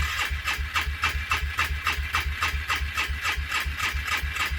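Cold petrol engine on full choke being cranked by its starter without catching, an even pulsing at about five beats a second. The owner suspects it is flooded or has a fouled spark plug.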